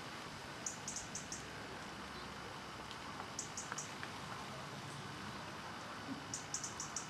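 A small bird calling in short, high-pitched chirps, in three quick runs of three to five notes, over a steady hiss.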